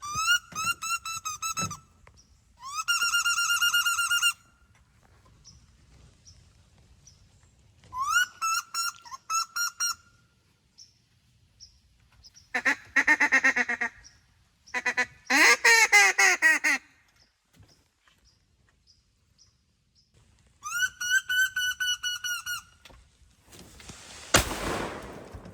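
Ducks calling: several runs of quick, rising squealing notes, with two harsher runs of falling calls in the middle. Near the end comes a brief rush of noise.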